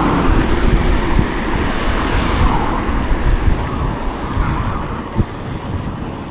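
Road traffic noise with wind rushing over the microphone while cycling, loudest at first and easing off toward the end.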